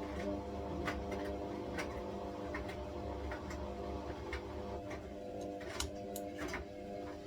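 Washing machine running a wash with a puffer body warmer in the drum: a steady motor hum with irregular light clicks and ticks throughout.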